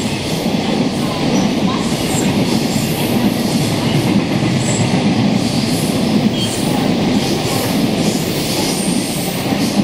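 Train running on the rails: a steady, loud rumble of wheels on track, with a few short high wheel squeals.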